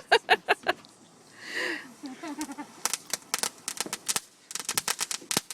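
Consumer fireworks crackling and popping in a rapid, uneven string of sharp reports, thickening over the last couple of seconds. A short call that rises and falls in pitch comes about a second and a half in.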